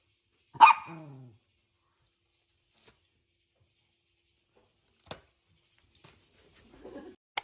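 A small dog barks once, a short bark that falls in pitch, followed by a few faint clicks and taps.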